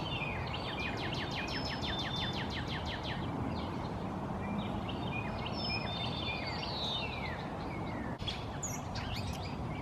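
Songbirds singing outdoors: a fast dry trill for the first three seconds, then assorted short chirps and whistles around the middle, over a steady background hiss and rumble.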